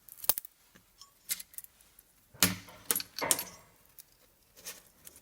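Loose metal pieces clinking and jangling in several sharp bursts, the loudest a little past the middle: pieces of the automatic gearbox's broken steel drive belt being moved around inside the transmission.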